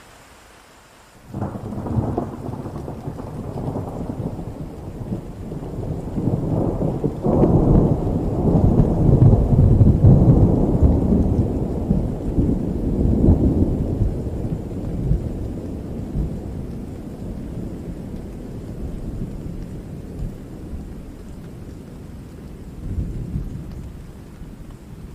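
Steady rain with a long roll of thunder that breaks in suddenly about a second in, swells to its loudest about eight to ten seconds in, and slowly rumbles away.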